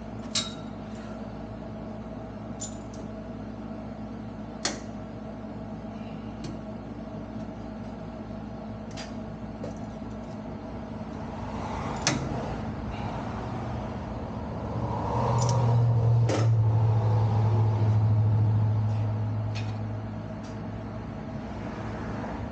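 A steady mechanical hum with scattered sharp metal clicks and taps, such as tools make against parts. The hum swells louder for a few seconds past the middle, then eases off.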